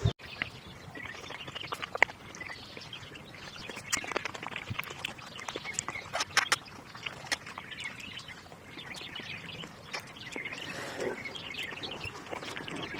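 Birds chirping over a low outdoor background, with many short, sharp clicks and crackles scattered throughout.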